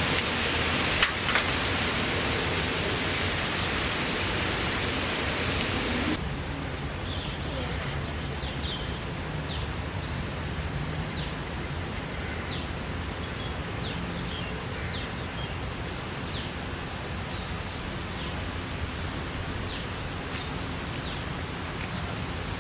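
Heavy rain making a dense, steady hiss, with a couple of clicks about a second in. About six seconds in it drops abruptly to a quieter rain-and-forest background, with many short, high, falling chirps scattered through it.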